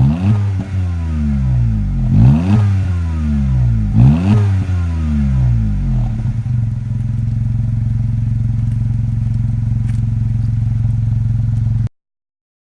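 Honda N-Box's 660 cc three-cylinder S07A engine breathing through a Kakimoto Kai GTbox 06&S aftermarket muffler, revved in three quick blips about two seconds apart and then settling to a steady idle. The sound cuts off suddenly near the end.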